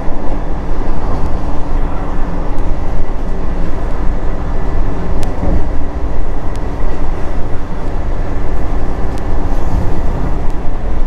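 Vande Bharat Express train running on the line: a loud, steady rumble and rush of wheels on rail, with a few sharp clicks along the way.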